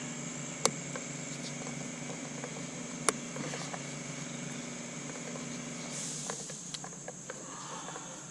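Two sharp plastic clicks about two and a half seconds apart, then lighter ticks and rattles near the end, from hands unclipping the fuel injector electrical connectors on the engine's harness, over a steady background hum.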